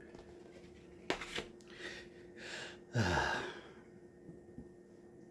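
A man breathing, then a loud sigh about three seconds in, its voice falling in pitch. A faint click comes about a second in.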